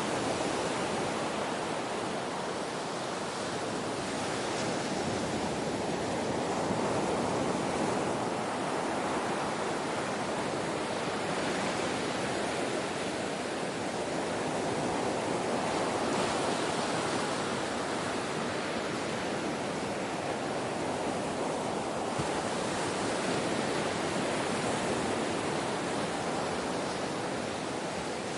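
Ocean surf: a steady wash of waves that swells and eases gently every several seconds.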